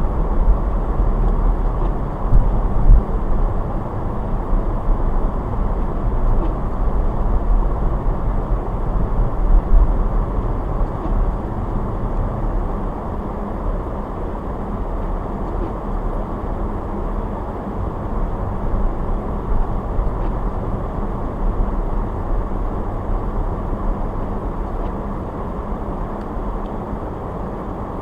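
Steady low road and engine noise of a car being driven, heavier in the first half and easing a little after about twelve seconds.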